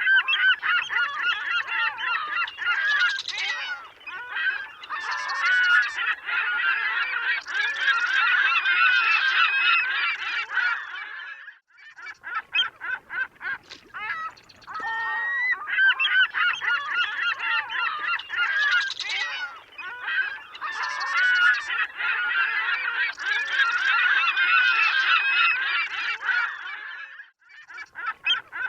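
A flock of seagulls calling, many squawking cries overlapping, with short lulls about midway and near the end. The same stretch of calling repeats about every sixteen seconds, as in a looped recording.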